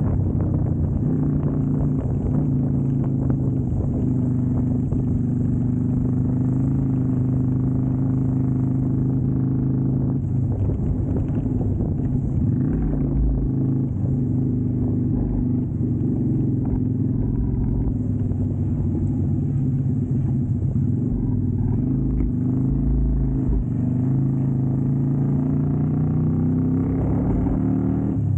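Keeway V250's 250 cc V-twin engine running steadily while the motorcycle is ridden, its pitch rising slightly near the end.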